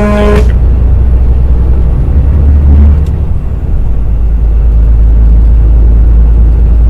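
Steady low rumble of a semi truck's engine and road noise, heard from inside the cab, swelling slightly two to three seconds in. A short held tone sounds right at the start.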